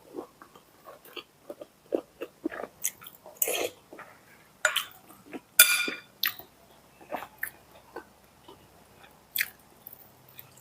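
A person chewing food close to the microphone: irregular short chews and smacks with crisp crunches. The loudest is a crunchy bite about five and a half seconds in.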